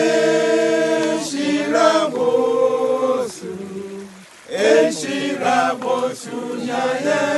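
Voices singing unaccompanied, in long held notes, with a short break between phrases midway through.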